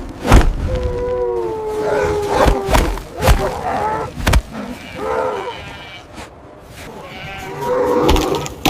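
Several drawn-out animal calls, each sliding slightly down in pitch, among a few sharp knocks.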